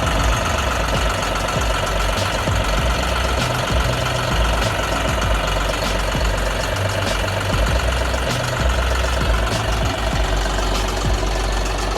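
Tractor engine running steadily at idle, with a fast, even pulse throughout.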